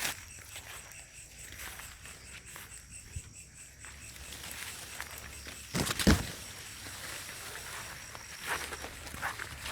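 Crickets chirping in a steady high trill, with footsteps rustling through vegetation; a louder thump and rustle about six seconds in, then a few lighter rustles.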